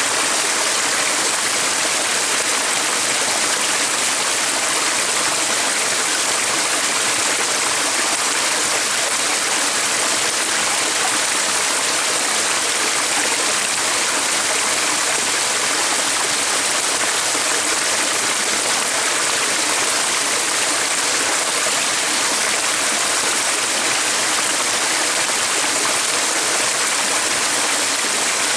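Stream water running with a steady, unbroken rush.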